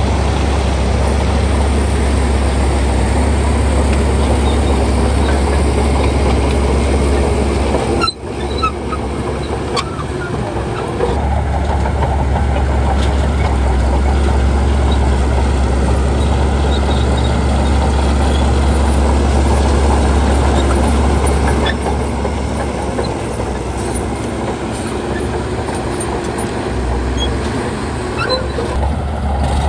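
Bulldozer's diesel engine running steadily under load, with a brief drop about eight seconds in.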